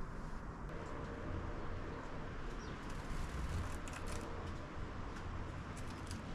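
Steady outdoor background with a low rumble, a few faint clicks and faint bird sounds, as sparrows feed at a plastic bird feeder.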